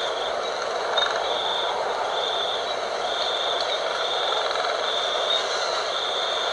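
Steady night wind with insects calling in a high trill that pulses on and off about once a second.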